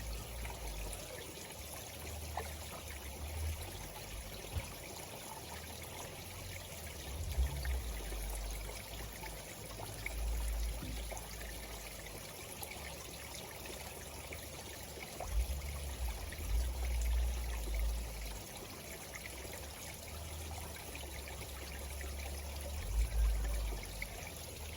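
Small pumped garden-pond waterfall trickling and splashing steadily into the pond, with occasional low rumbles.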